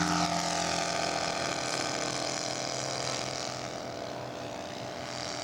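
Engine of a radio-controlled scale model airplane running steadily at a single held pitch just after a touch-and-go, slowly growing fainter.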